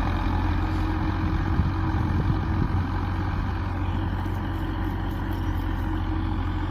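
Belarus tractor's diesel engine running steadily at an even speed.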